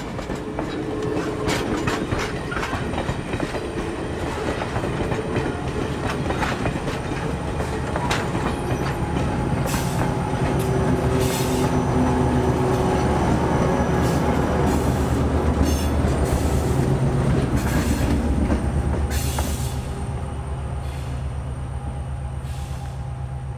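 Passenger excursion train rolling past: wheels clicking over rail joints with some wheel squeal. Under it runs a steady low hum. The sound builds to its loudest about two-thirds through, then fades.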